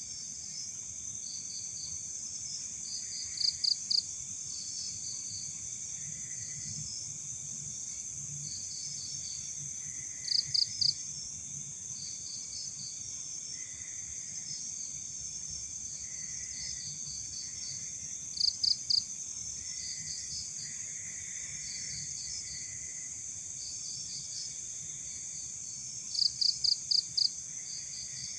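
Night insect chorus: a steady high-pitched hiss of crickets. Over it a nearby cricket chirps in short trills of three to five quick pulses, roughly every eight seconds, and these trills are the loudest sounds.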